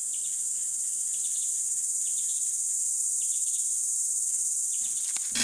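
Steady, high-pitched droning chorus of forest insects, with faint short chirps repeating about once a second. It breaks off abruptly just before the end as a louder, fuller sound cuts in.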